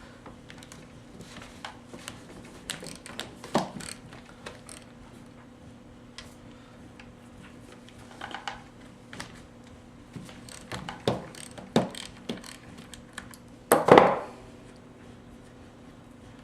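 Scattered clicks, ratcheting and light metal clinks of a wrench and parts as the bolts holding a chainsaw's side cover are undone, with a louder clatter about fourteen seconds in.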